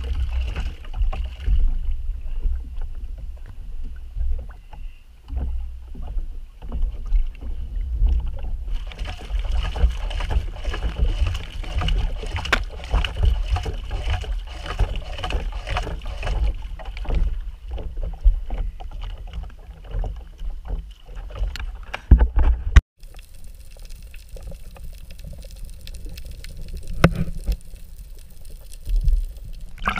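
Wind buffeting the microphone and water slapping against the hull of a small wooden boat, with scattered knocks. About two-thirds of the way through, the sound cuts abruptly to a muffled underwater hiss.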